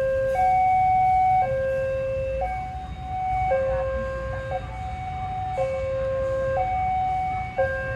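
Two-tone warning siren alternating high and low, each tone held about a second, over a low rumble.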